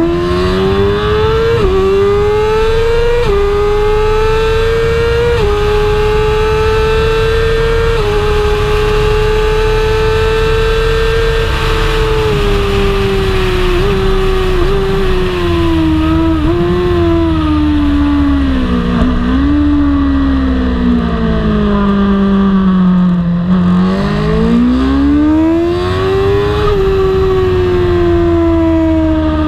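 BMW superbike's inline-four engine at racing speed. It climbs through several upshifts in the first few seconds and holds high revs, then falls through a run of downshifts with short throttle blips in the middle. It bottoms out about three-quarters of the way through and revs up hard again near the end.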